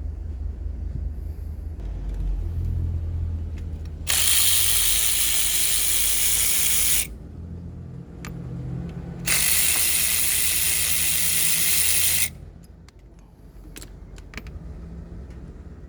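Two steady hisses of pressurised spray from a nozzle, each about three seconds long and a couple of seconds apart, over a low steady hum. A few light clicks follow near the end.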